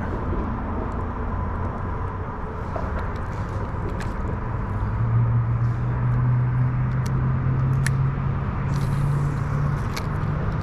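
Road traffic: a steady low rumble, with a vehicle's low engine hum growing louder about halfway through and rising slightly in pitch as it passes, and a few faint ticks.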